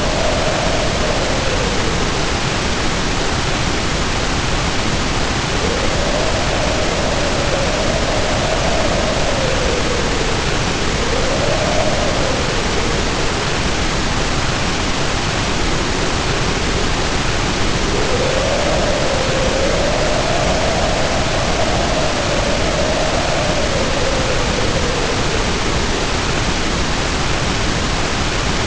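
Wind howling in a storm, its pitch wavering up and down and fading in and out, over a steady loud hiss of heavy rain.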